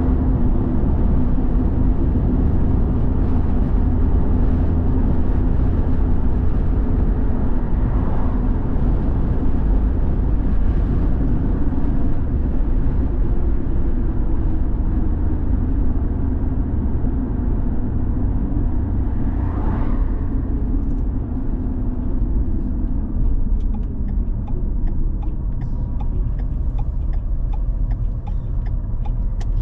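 Car driving along: a steady low engine and road rumble, the engine's pitch slowly falling in the second half.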